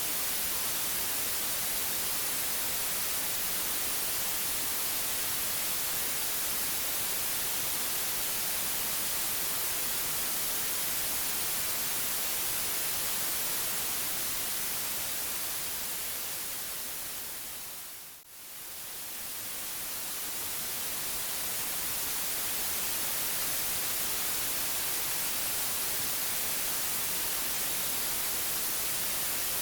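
Steady white noise hiss, brightest in the highs. About two thirds of the way through it fades slowly down to a brief near-gap, then fades back up.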